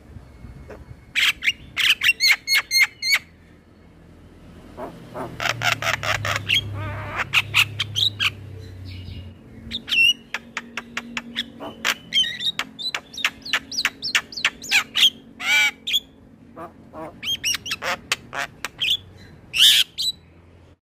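Male Javan myna singing in rapid clusters of sharp chattering, whistled and harsh notes, with mimicked fill-in phrases mixed in.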